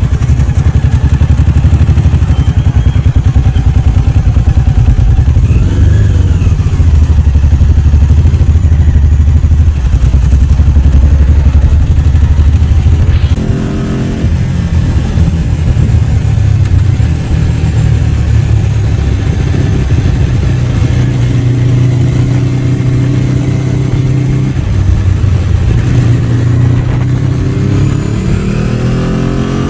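Ducati 749's L-twin engine running steadily at low revs, its pitch rising near the end as it accelerates.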